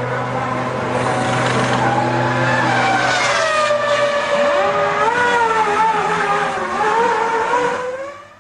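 Formula One V10 engines running, several engine notes overlapping and rising and falling in pitch. A low steady hum drops out about halfway through, as another engine note climbs sharply.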